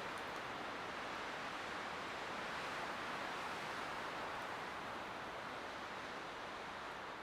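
Light wind blowing steadily as an even, soft rushing hiss, swelling a little around the middle.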